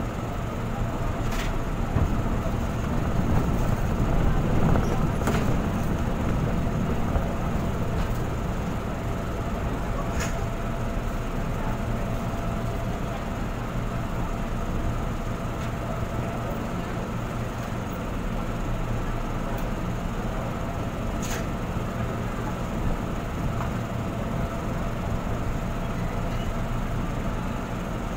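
Interior of a JR 205-series electric commuter train running along the track: a steady rumble of wheels on rail, with a few single sharp clicks as it rolls over rail joints and points.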